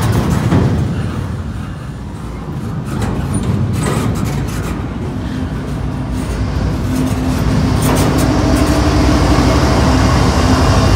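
Double-stack intermodal freight train rolling past close by, its wheels clacking over the rail. From about halfway a mid-train diesel locomotive comes by, adding a steady engine hum that grows louder.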